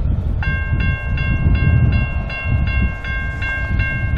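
Norfolk Southern diesel freight locomotives rumbling as the train draws near. About half a second in, a bell starts ringing rapidly at an even rate of nearly three strokes a second.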